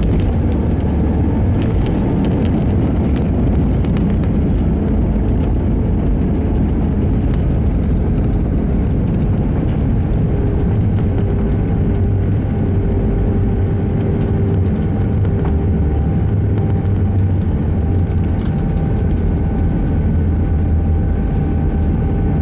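Steady engine and airflow noise heard inside the cabin of an Airbus A321 airliner on the ground after landing: a loud, even rumble with a few steady engine tones on top.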